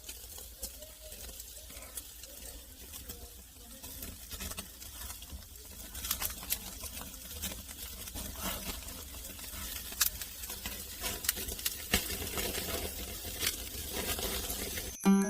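Wood fire crackling in a fireplace: irregular sharp pops and snaps that become more frequent and louder as it goes, over a low steady hum.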